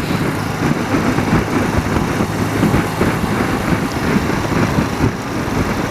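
BMW motorcycle engine running steadily at road speed, mixed with rushing wind and road noise.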